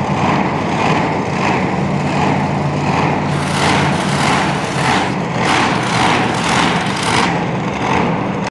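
Monster truck engine running with a steady low hum. From about three to seven seconds in, a louder, harsher noise pulses about twice a second.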